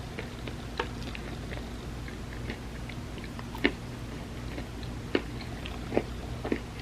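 Close-miked chewing of an ice cream sandwich: soft, scattered mouth clicks and smacks, the sharpest a little past halfway, over a steady low hum.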